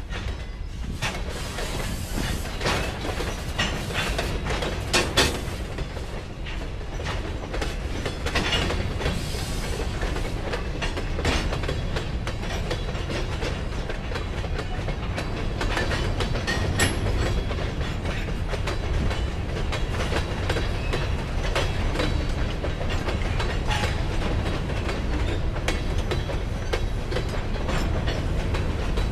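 Freight train passing close by, its boxcars and covered hopper cars rolling steadily: a constant low rumble of steel wheels on rail, with many sharp clicks and clanks as the wheels cross rail joints.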